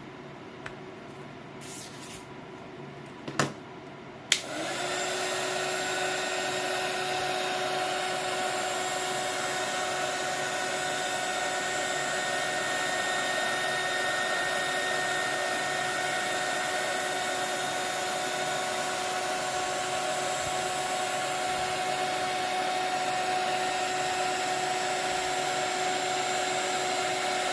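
A few light clicks, then a switch click about four seconds in as a small electric blower motor starts, spins up briefly and runs steadily with a whine over a rush of air.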